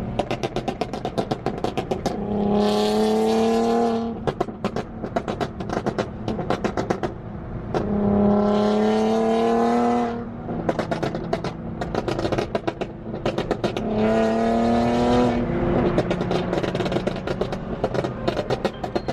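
Nissan 370Z's 3.7-litre V6 through a full Tomei exhaust, pulling hard three times for about two seconds each with the pitch climbing a little. In between it runs with a rapid, irregular crackle on the overrun.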